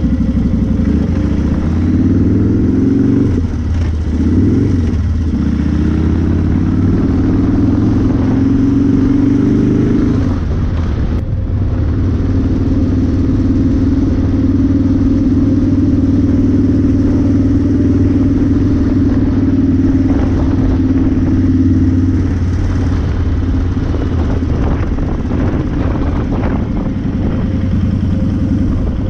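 Motorcycle engine running on the road with wind rush. Its pitch rises and falls several times in the first ten seconds as it works through the gears, then holds steady at a cruise.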